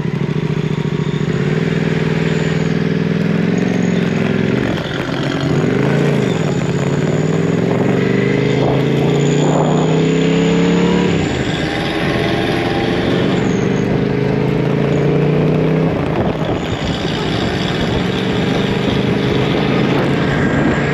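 A motor vehicle engine droning steadily under way. Its pitch dips and climbs back twice, about five and eleven seconds in, as it slows and picks up speed again.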